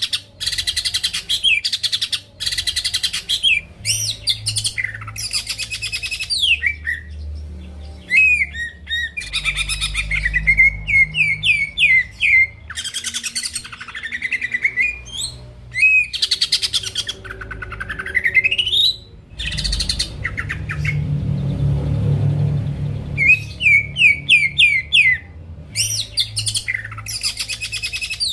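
Cucak ijo (green leafbird) in full song: a fast, varied stream of rapid trills, chattering notes and sweeping whistles that rise and fall, broken by brief pauses. A low steady hum runs underneath.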